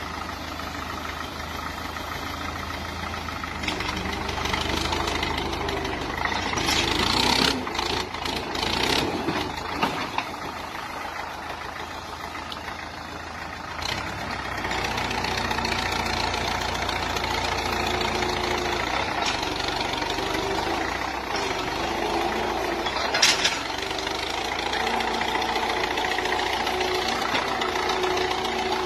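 Old tractor engine running, growing louder for a few seconds about seven seconds in and again from about fifteen seconds on, with a sharp clatter about twenty-three seconds in.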